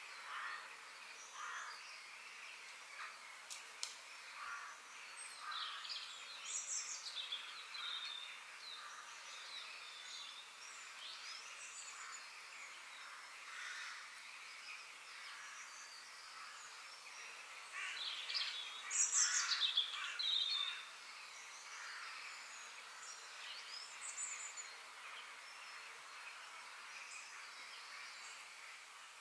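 Several forest birds chirping and singing over a steady background hiss, with a louder burst of rapid calls about two-thirds of the way through.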